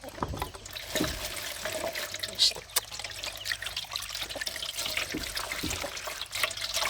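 Water trickling and splashing steadily, with many small irregular ticks.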